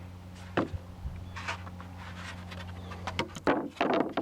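Wooden lap siding boards being handled and set in place, giving a few short knocks over a steady low hum.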